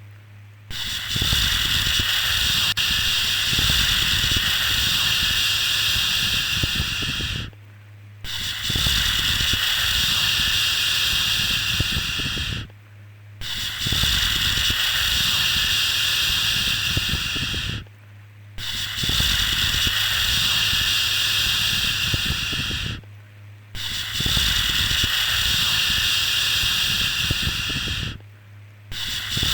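Long, steady 'shhh' shushing sounds for soothing a baby to sleep, repeating in a loop. Each hiss lasts about four and a half seconds, with a short pause of under a second between them: five full shushes, and a sixth starting near the end.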